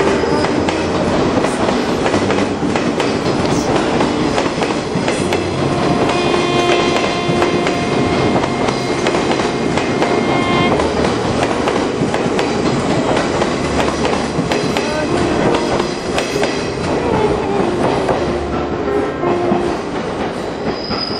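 Orange JR Chuo Line 201 series electric train moving out along a station platform, its wheels clattering over the rail joints. The sound eases off a little in the last few seconds as the rear car clears.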